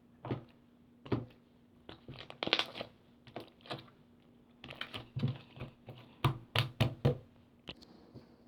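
Slime being squeezed and pressed by hand, giving an irregular series of sharp clicks and crackles, with a loud run of pops between about five and seven seconds in.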